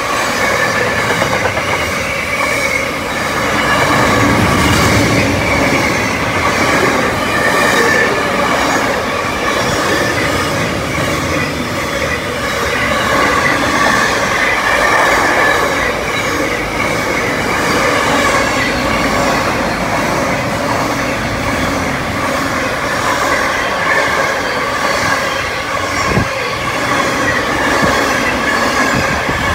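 Long container freight train's wagons rolling past at close range, wheels clacking over the rail joints in repeated beats with a steady high squeal from the wheels.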